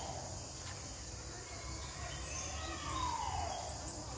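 Outdoor bushland ambience with a bird's harsh, falling call about two seconds in, a steady low rumble and faint high chirps.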